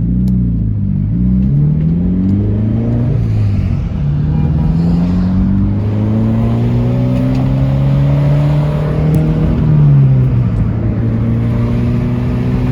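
Subaru BRZ's flat-four boxer engine through a muffler-delete straight pipe, accelerating through the gears, heard from inside the cabin with the window down. The pitch climbs and drops back at each upshift, about three times.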